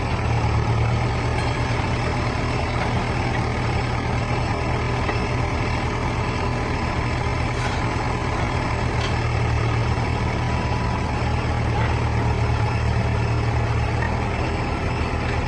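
Heavy diesel machinery engine, a logging truck or excavator, running steadily with a deep, even drone.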